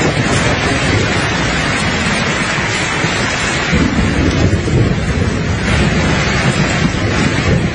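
Steady rain falling, with a low rumble of soft thunder rolling underneath, swelling a little around the middle.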